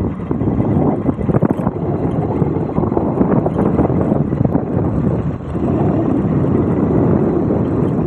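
Motorcycle running on the move, its engine noise mixed with wind buffeting the microphone, steady throughout.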